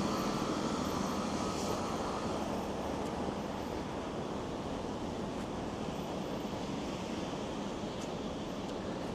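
Steady rumble of city road traffic, with a louder passing vehicle fading away over the first few seconds.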